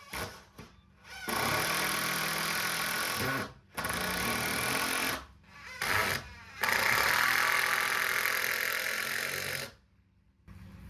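Power screwdriver or impact driver running in five stop-start bursts, the longest about three seconds, driving screws into new boards.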